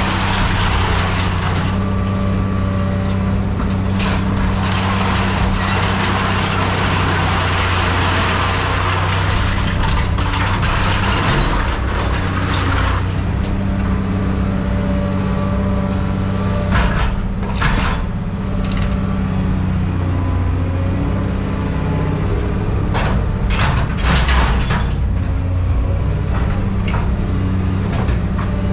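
Heavy diesel machinery running steadily, with a loud hiss through roughly the first half and scattered sharp knocks and clanks in the second half.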